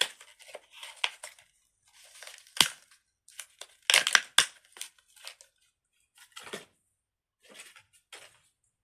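Crinkly plastic being handled in irregular rustling bursts, with a few sharp clicks, the loudest about four seconds in.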